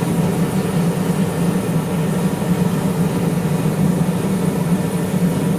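Forge running with a steady, continuous low drone and no hammer blows.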